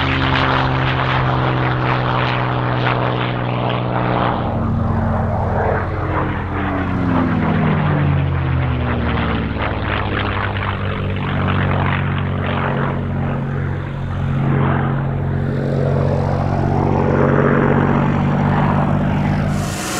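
Piston engine of a propeller-driven fighter aircraft running in flight, a steady drone whose pitch shifts about 4 seconds in and slides down for a few seconds after that, as the aircraft passes.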